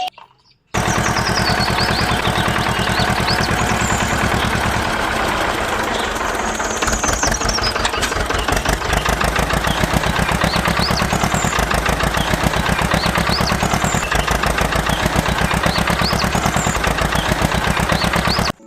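A small engine running steadily with a fast, even knocking beat, cutting in abruptly just under a second in; its low end gets heavier about seven seconds in.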